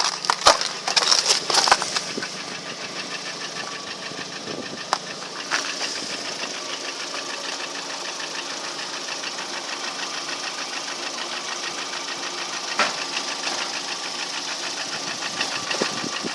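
Lada Priora engine idling steadily with a fast, even knocking tick running through it: the unexplained engine knock, unchanged after a year with only oil changes. A few loud irregular knocks in the first two seconds and one sharp knock about 13 seconds in stand out over it.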